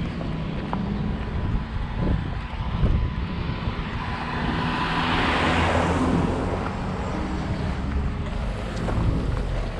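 Enduro motorcycle engines running, with a rushing swell that builds to a peak about five to six seconds in and then fades.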